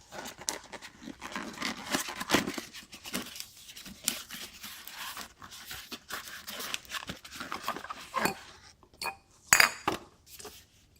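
A new oil filter being handled and unpacked: irregular clicks, rustling and small metal clinks, with one sharp knock near the end.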